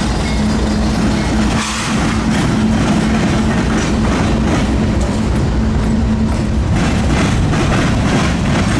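Freight train rolling past, its wheels clacking over rail joints and the diamond crossing, over a steady low hum that fades out about two-thirds of the way through.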